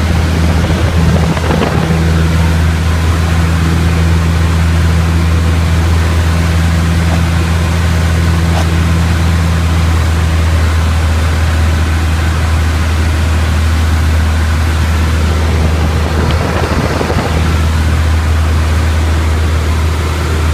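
Piper Tomahawk's four-cylinder Lycoming engine and propeller running steadily: a constant low drone with a hiss of air noise over it.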